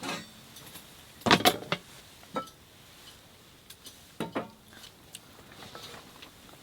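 Utensils knocking and clinking against cookware in a few separate strikes, the loudest cluster about a second and a half in.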